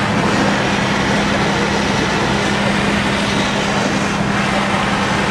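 Fire truck's engine running steadily, a constant low hum over an even rush of noise.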